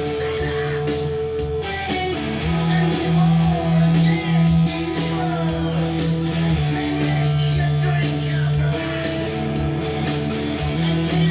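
Eastwood Airline electric mandola played through a one-watt Marshall JTM145 valve amp turned up full, a heavy rock riff with long held notes.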